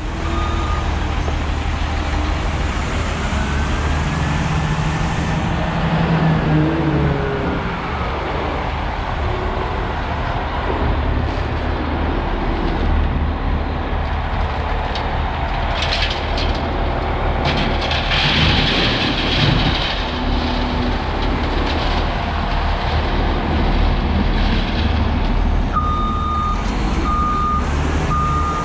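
A diesel dump truck engine, the International S1900's DT466, running steadily. Near the end a reversing alarm starts beeping about once a second.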